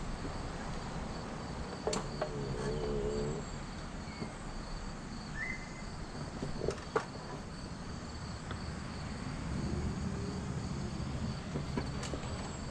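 Insects trilling steadily, with a few sharp clicks or knocks, two of them close together about seven seconds in.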